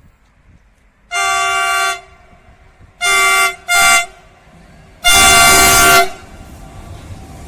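Freight locomotive horn sounding four chord blasts: one of about a second, two short ones close together, then a loud one of about a second. Afterwards the train's rumble grows.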